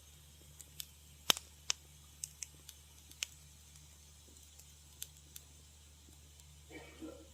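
Wood fire crackling in a fireplace: scattered sharp pops and snaps, the loudest about a second in, over a faint steady low hum. Near the end comes a brief, duller rustling sound.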